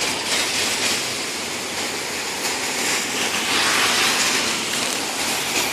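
Heavy rain falling, a steady even hiss that swells slightly a little past the middle.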